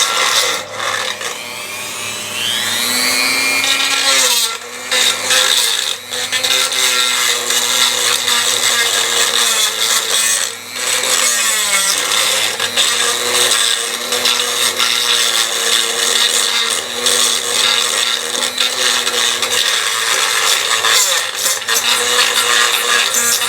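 Electric drill running, drilling out a stripped bolt hole in the oil filter housing; the motor whine rises in pitch as it speeds up a few seconds in, then holds steady with a few short dips.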